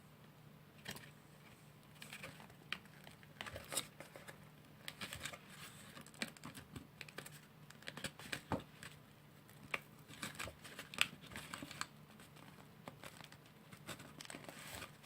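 Paper and thin cardboard pieces being handled and pressed together by hand: irregular light clicks, taps and crinkles.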